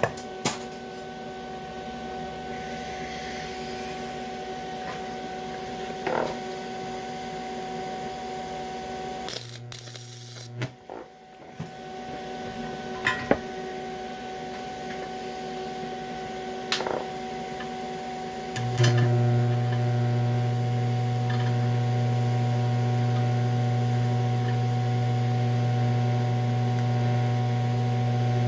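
TIG welding machine humming steadily. About a third of the way in there is a brief burst. About two-thirds of the way in the hum turns much louder and holds there, as when the welder is put under load with the arc running on DC electrode-positive on aluminum. A few sharp clicks are scattered through it.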